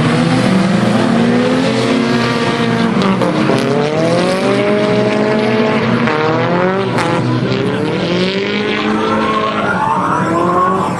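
Several Nissan drift cars in close procession, their engines revving up and down over and across each other with tyre squeal from the sliding cars.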